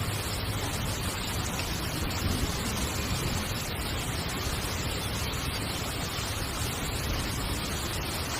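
Heavy rain falling steadily on a tent, an even dense hiss with no breaks or single drops standing out.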